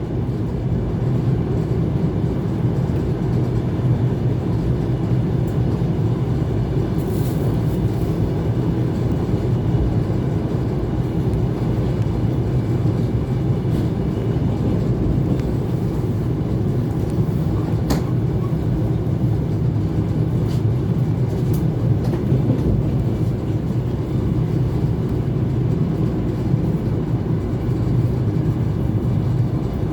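ET2 electric multiple unit running between stations: a steady, even rumble of the wheels and running gear on the track, with a few brief sharp clicks.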